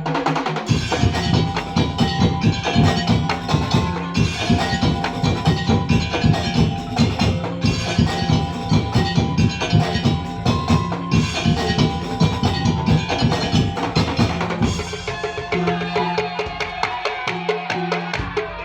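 Madurese ul-daul percussion ensemble playing a fast, dense rhythm of wooden slit drums and drums over a held bass note and a melody. About fifteen seconds in, the heavy low drumming drops away and a lighter pattern carries on.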